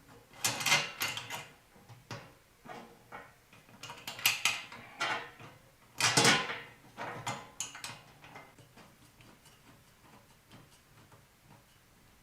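Parts of an extendable microwave shelf rack clattering and clicking as they are handled and fitted together, in three louder bursts over the first half, then a few light clicks.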